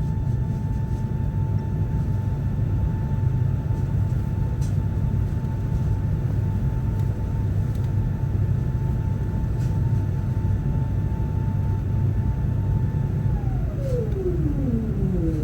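Steady low rumble inside an Airbus A380's cabin, with a steady whine that slides down in pitch near the end, a few tones falling together.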